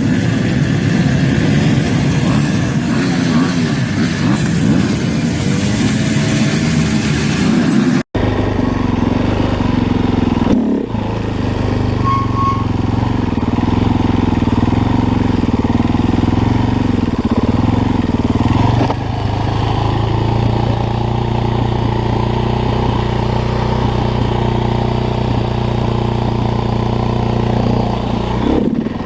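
Motocross dirt bike engines running loud, revving up and down in pitch. About eight seconds in the sound cuts abruptly to a steadier engine drone that holds a more even pitch.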